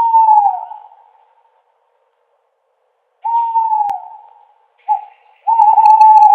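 Owl hooting: a hoot that sags in pitch at the start, another about three seconds in, then a short hoot followed by a longer, steadier one near the end.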